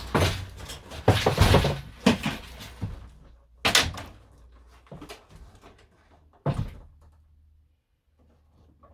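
Interior panelling of a camper van being pried and torn out by hand: a run of loud cracks, scrapes and bangs over the first three seconds, then two single sharp bangs about four and six and a half seconds in, fading to quieter rustling.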